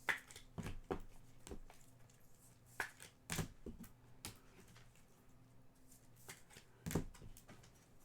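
Trading cards being handled: scattered light clicks, taps and rustles at irregular moments as cards are flipped and set down, the sharpest just after the start and about seven seconds in, over a faint steady low hum.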